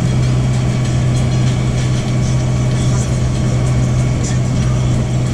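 Tram's engine running steadily, heard from aboard the carts: an even low hum with a constant rumble beneath it.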